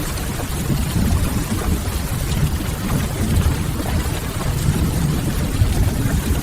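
Rain and wood-fire ambience: a steady wash of rain with a fireplace fire over a deep, even low rumble, without breaks.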